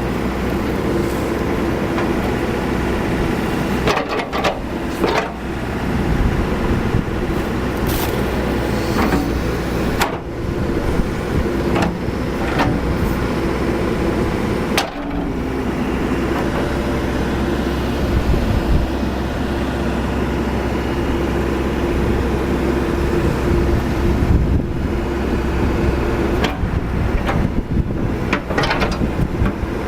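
Cat 416C backhoe loader's turbocharged diesel engine running while the machine is worked through its functions, with sharp knocks and clunks at intervals from the moving linkage.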